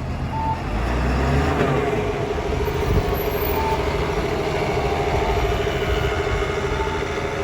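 Nissan Diesel Space Runner bus's diesel engine rising in pitch over the first couple of seconds, then holding a steady, loud, fast-pulsing buzz like a moped. The uploader takes this abnormal noise to come from a rotating part below the engine compartment.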